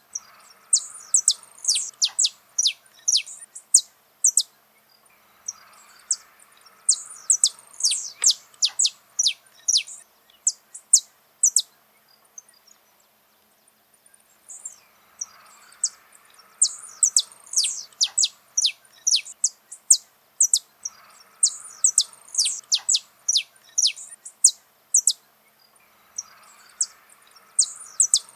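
Saffron finch (canário-da-terra) singing: bouts of sharp, high, quickly falling notes in rapid series, broken by short pauses, with a longer pause about halfway through.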